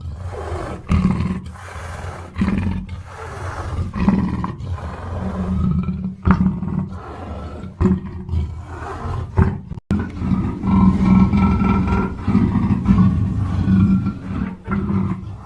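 Black panther roaring in a string of repeated rough calls, with a short break in the sound near ten seconds in.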